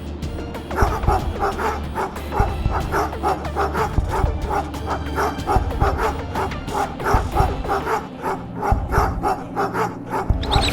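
Cartoon background music with a steady low bass, over which short, sharp yapping pulses repeat rapidly and evenly, about four a second, starting about a second in.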